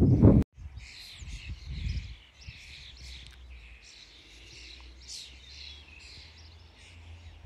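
Small birds chirping and singing, many short overlapping calls and trills, over a faint steady low hum. A loud low noise cuts off abruptly about half a second in.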